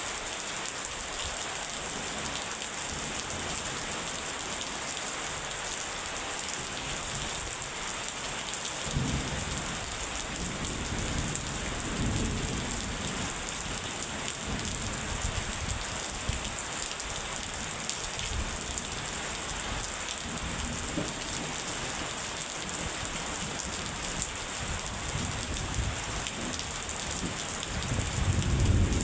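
Steady rain with rolls of thunder: low rumbles about a third of the way in, and a louder roll building near the end.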